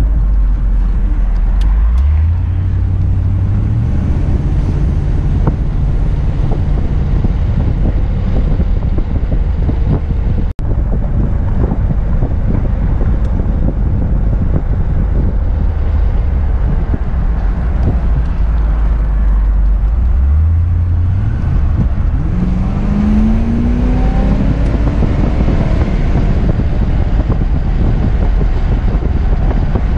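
A 1978 Corvette's V8 heard from inside the cabin while driving, with wind and road noise. The engine note climbs about two seconds in and again from about two-thirds of the way through, in a long rising pull as the car accelerates. There is a momentary break in the sound about a third of the way in.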